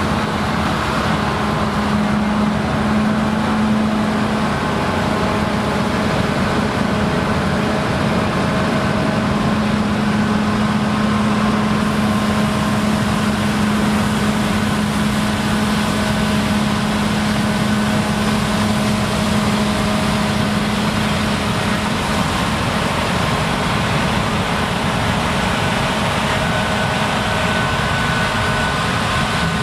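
Claas Lexion combine harvesters running steadily while harvesting rye: a continuous heavy machine drone with a steady hum that fades away about two-thirds of the way through.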